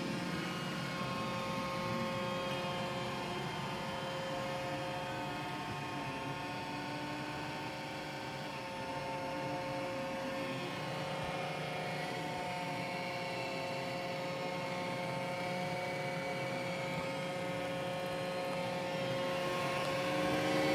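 Roomba j7+ robot vacuum running while it cleans: a steady hum of its suction motor and brushes, with several held whining tones.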